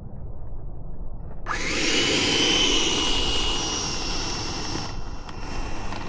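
Electric ducted-fan RC model jet powering up: a high whine over a loud rushing hiss starts suddenly about a second and a half in, then eases back about five seconds in. Before it, only a low rumble of wind on the microphone.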